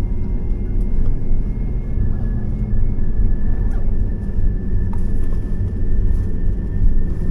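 Steady cabin noise inside a COMAC C919 airliner: a low rumble with a faint, steady high whine above it.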